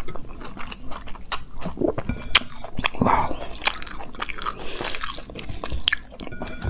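Close-miked mouth sounds of a person chewing a handful of vegetable fried rice: wet, irregular smacks and sharp clicks.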